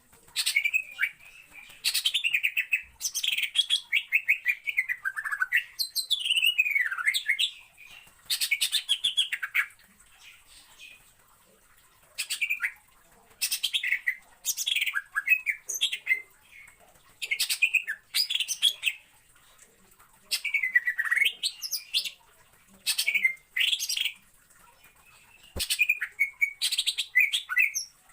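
Cucak ijo (green leafbird) singing loud, varied phrases of clear whistles, many sliding downward, mixed with rapid trills, each phrase lasting a second or two with short pauses between.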